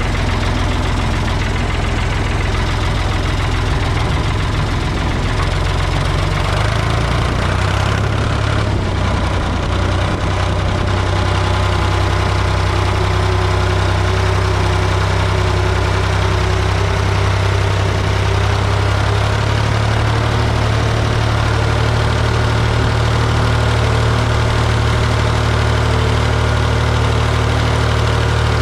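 Ford 420 backhoe's engine running steadily, its note shifting up a little about a quarter of the way in and again about two-thirds through.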